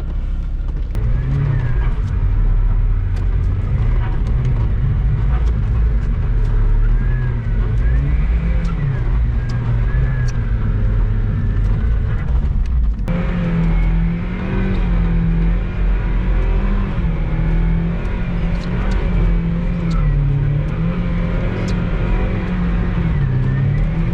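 Mazda Miata's four-cylinder engine revving up and down repeatedly while the car is driven for donuts on a wet surface. Engine pitch swings up and down throughout, and the sound changes abruptly about halfway through.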